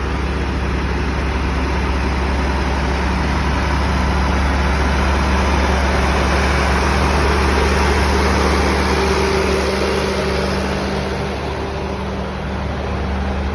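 Tractor engines running as tractors drive past: a steady low hum that swells a little around the middle, then eases off.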